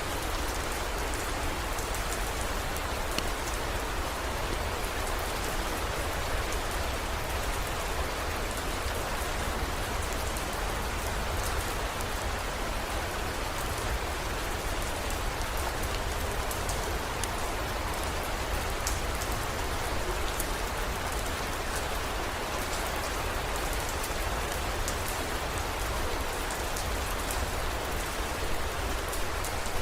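Steady heavy rain, an even hiss with scattered sharp drop ticks and a constant low rumble underneath.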